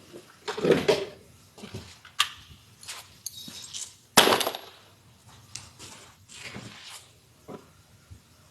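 Irregular knocks, clunks and short rattles of hands working on a car's interior during seat removal, with the loudest a sharp bang about four seconds in.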